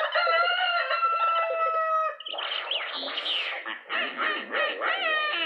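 A rooster crowing in one long held call lasting about two seconds, followed by quick, repeated clucking.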